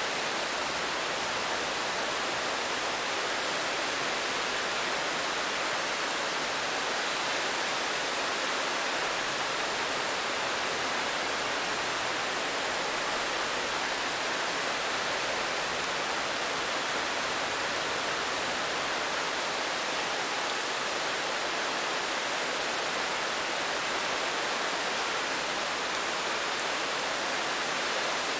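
Steady rainfall, an even unbroken hiss with no distinct drops or thunder.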